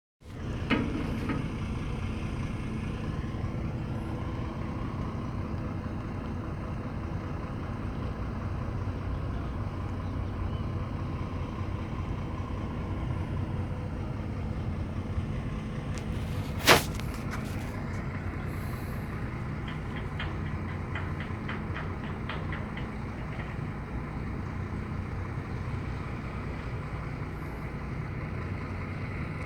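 Boat engine running steadily while the boat is brought alongside. One sharp knock rings out about halfway through, followed a few seconds later by a run of light ticks.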